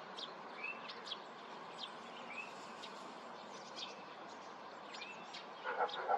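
Small birds chirping faintly: scattered short, high chirps and a few brief warbled notes over a steady outdoor hiss. A louder, lower call starts near the end.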